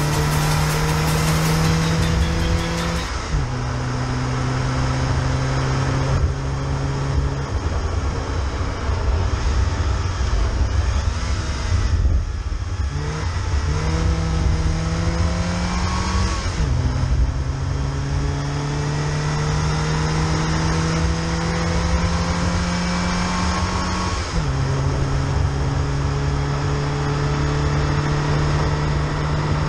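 Car engine accelerating hard through the gears. The engine note climbs steadily for several seconds, then drops sharply at each upshift, about five times, over a steady low road rumble.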